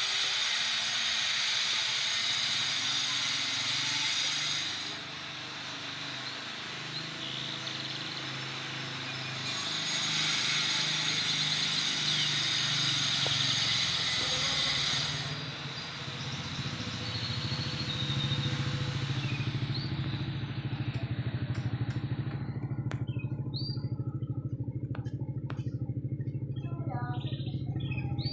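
Motorcycle engine noise that swells loud twice, then settles into a steady low engine hum. A few short, faint chirps from a young canary come in near the end.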